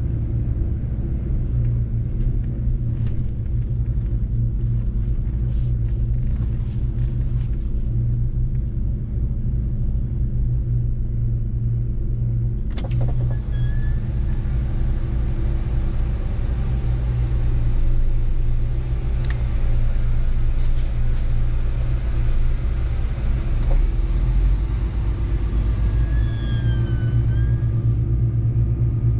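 Mercedes-Benz truck's diesel engine running steadily at an even pitch while driving, a deep hum with road noise. About 13 seconds in, a louder hiss joins the hum, and two brief squeaks come near the end.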